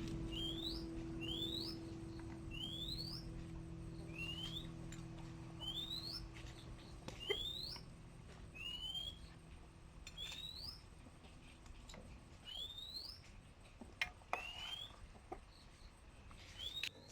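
A bird repeating a short, rising chirp about once a second, with a few faint clicks in between.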